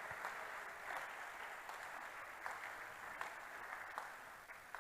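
Congregation applauding, heard faintly as a steady patter of many hands that dies down near the end.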